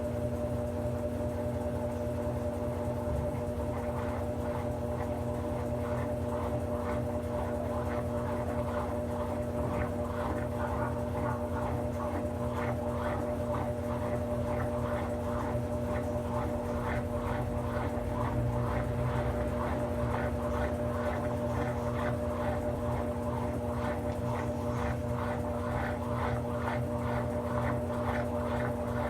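Brastemp 17 kg top-load washing machine running mid-cycle: a steady motor hum with a regular swishing pulse, about two a second, that builds up from about four seconds in.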